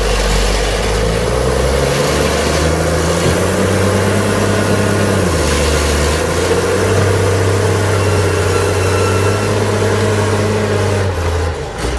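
Heavy vehicle engine running steadily and loud under load, its pitch shifting up and down every second or two.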